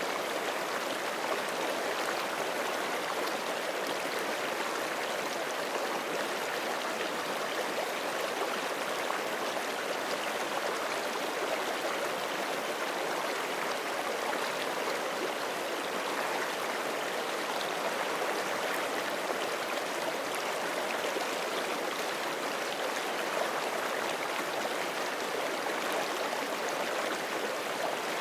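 Forest creek rushing steadily over rocks, a continuous even water noise with light gurgling.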